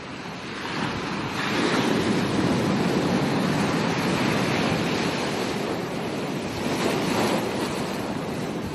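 Ocean waves breaking and washing up a beach. A surge of surf swells in about a second in, stays loud for several seconds and eases off near the end.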